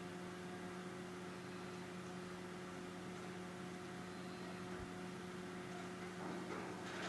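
A steady low hum with a few fainter higher overtones over a light hiss, with faint rustling coming in near the end.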